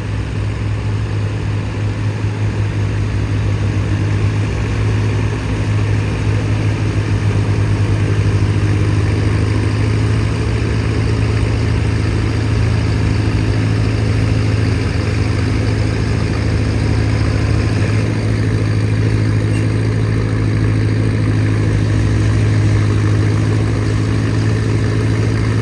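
Antique farm tractor engine running loud and steady at constant speed, its low note holding even, a little louder from about eight seconds in.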